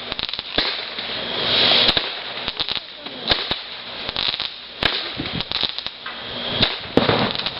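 Consumer fireworks crackling and popping in rapid, irregular bursts over a hiss, with sharper, louder cracks about five and seven seconds in.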